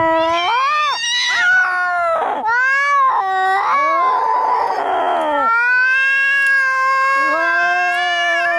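Angry cats caterwauling in a fight: long, drawn-out wails that rise and fall in pitch. A harsh, hissing stretch comes about four seconds in, and near the end a second, lower yowl overlaps the first.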